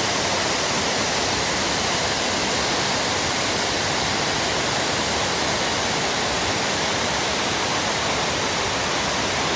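A waterfall in full spate, making a loud, steady rush of falling water, swollen with the season's extra flow.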